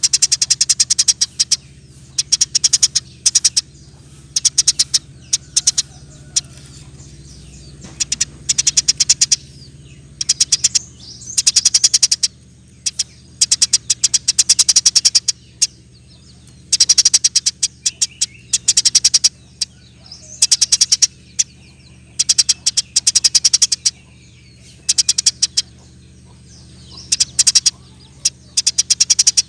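Eurasian tree sparrow singing in bursts of very rapid, high chattering chirps, each burst lasting a second or two with short pauses between. A faint steady low hum lies underneath.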